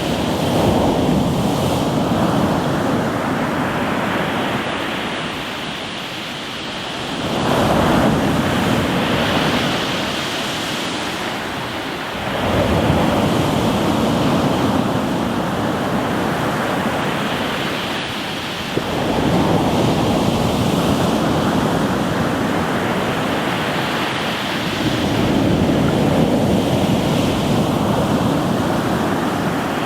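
Sea waves breaking and washing over a rocky shore, a new surge swelling up about every six seconds.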